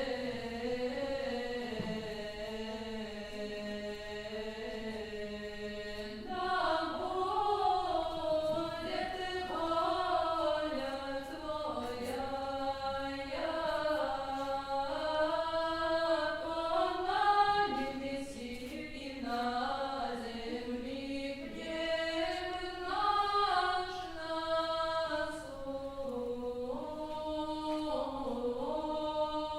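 Several voices singing unaccompanied Old Russian chant: long held notes over a low sustained tone at first, then, about six seconds in, louder moving melodic lines.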